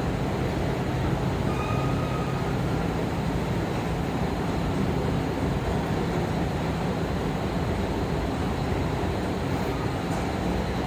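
Steady mechanical running noise with a low hum, even in level throughout, with a faint brief high tone about two seconds in.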